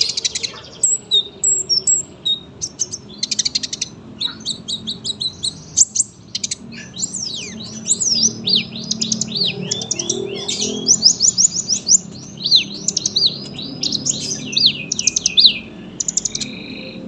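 Kolibri ninja (sunbird) singing a long, busy song of high chirps, rapid trills and quick sweeping whistles with hardly a break.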